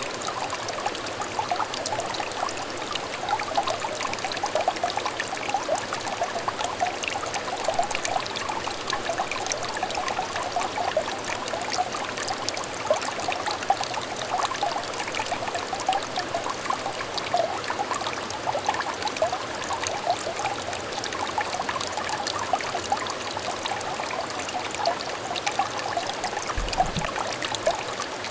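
Small stream of water trickling and burbling over stones, a steady gurgle with constant little bubbling notes. A brief low thump comes near the end.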